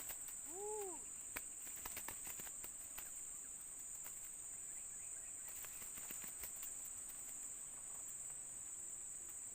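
Steady high-pitched drone of insects in the background, with one short rising-and-falling call near the start and scattered light clicks.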